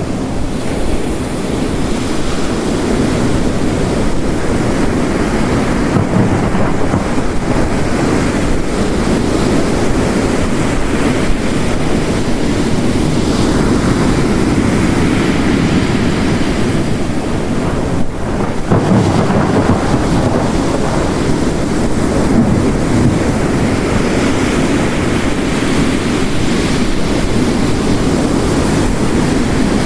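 Mixed storm ambience: ocean waves breaking on a coast, a loud continuous rushing wash that swells and eases, layered with heavy rain.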